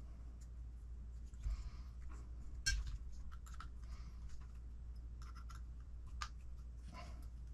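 Small RC kit parts being handled on a workbench: scattered light clicks and brief rustles, with one sharper click about two and a half seconds in, over a steady low hum.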